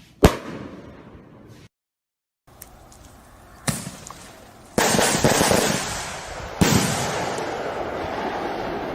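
Fireworks going off. A single sharp bang comes first, then the sound cuts out briefly and another bang follows. About five seconds in, a dense crackling barrage starts, and a second burst near the end trails off slowly.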